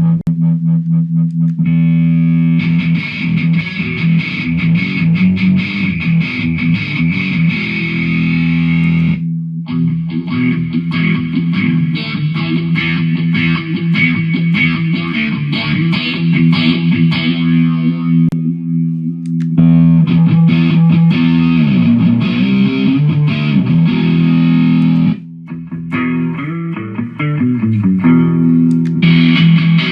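Jackson electric guitar played through a Mooer GE150 multi-effects unit on a distorted tone, holding low ringing notes and chords that stop briefly a few times.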